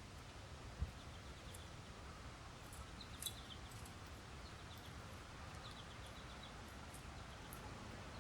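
Steady low wind rumble of a blizzard, with several short runs of quick high chips from small birds at a seed bell feeder and a sharp tap about a second in and again a little after three seconds.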